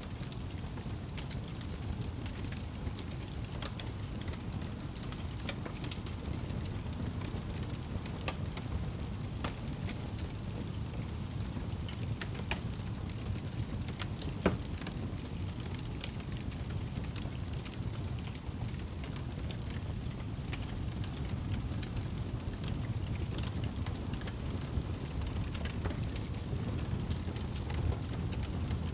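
Wood fire burning in a fireplace: a steady low rumble of the flames with scattered crackles and pops of the burning logs, one sharp pop about halfway through.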